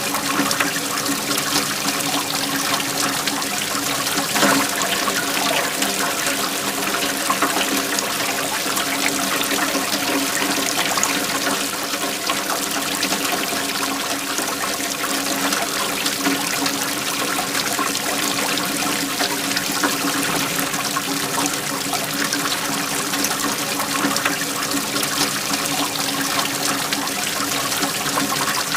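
Waterfall flowing steadily, an even, unbroken noise of falling water.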